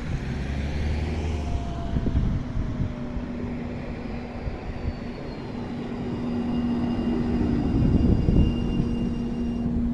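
Low-floor tram running, its drive giving a steady hum with a few faint high tones above it. The wheels rumble on the rails, loudest about eight seconds in.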